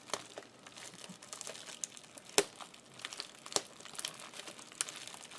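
Crinkling and crackling of a folding car sunshade and its adhesive tape being handled and lifted for repair, with a few sharp clicks, the loudest about two and a half seconds in.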